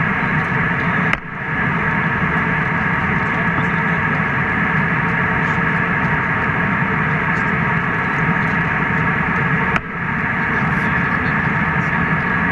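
Steady airliner cabin noise in flight: a constant rush with several steady hum tones from the jet engines and airflow. It drops sharply for a moment about a second in and again near the end, then comes back.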